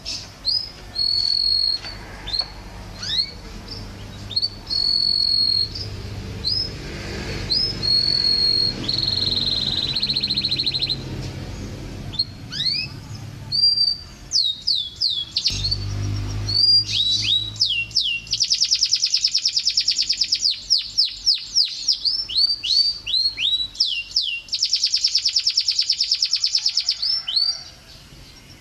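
Domestic canary singing: a string of short rising whistled notes, broken twice by long, very fast rolling trills, about two-thirds of the way in and again near the end.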